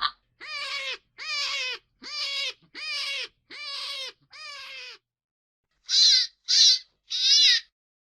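Hare calling: six short pitched calls, each about half a second long and evenly spaced, then after a pause three louder calls in quick succession.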